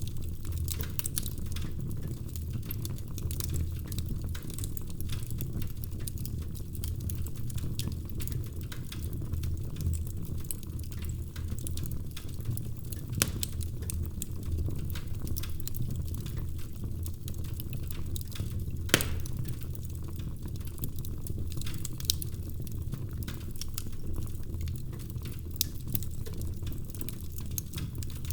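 Wood fire in a fireplace crackling steadily over the low rumble of the flames, with scattered sharper pops, the loudest about two-thirds of the way through.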